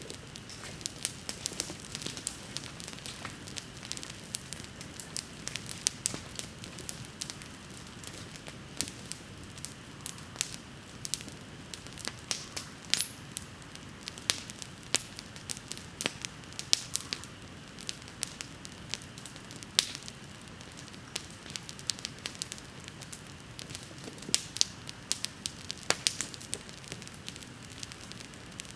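Wood campfire burning, with irregular sharp crackles and pops over a steady low rush of flame. One brief high rising whistle sounds about halfway through.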